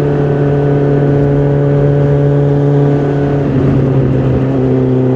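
2010 Suzuki GSX650F's 656 cc inline-four engine and exhaust running steadily under way. Its pitch eases slightly, and about three and a half seconds in the note briefly turns ragged before it settles again.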